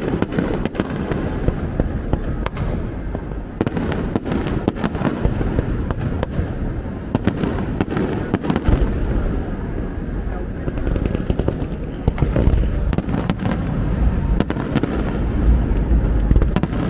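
Fireworks going off: a rapid, irregular run of sharp bangs and crackles over a steady rumble, the rumble growing heavier about halfway through.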